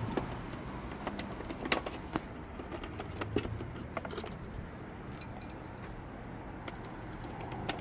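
Scattered light clicks and clinks of metal tools being handled and picked through, over a faint low hum.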